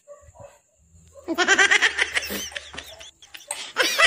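Laughter: after a near-quiet first second, a quick run of high-pitched giggles that stops briefly around three seconds in and starts again just before the end.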